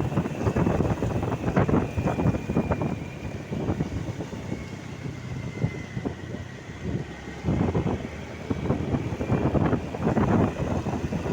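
Road traffic noise mixed with gusts of wind buffeting the microphone, dying down in the middle and picking up again near the end, with a faint high whine that dips slightly in pitch.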